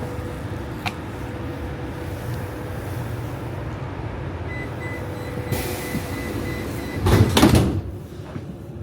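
Inside a moving public-transport vehicle: a steady low rumble with a faint high beeping. About seven seconds in comes a short, loud rush of noise, like a door or brake release.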